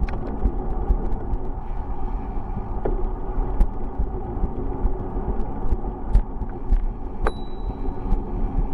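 Continuous low rumble with irregular thumps and scattered rattling clicks, the road and wind noise of riding a bicycle. About seven seconds in, a single sharp, bell-like ring holds for about a second.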